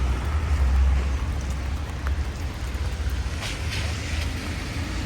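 Steady rain falling on a town street, with the low rumble of a passing vehicle dying away in the first second or so.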